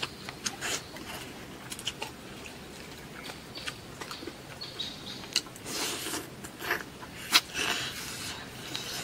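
Close-up eating: chewing and wet mouth smacks on spicy braised duck heads and rice, with many short sharp clicks. The loudest click comes about seven seconds in.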